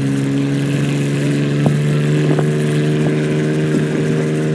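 Straight-piped 4.0 V6 of a 2001 Ford Ranger held at steady high revs under load while pulling the sled, its pitch flat and unchanging.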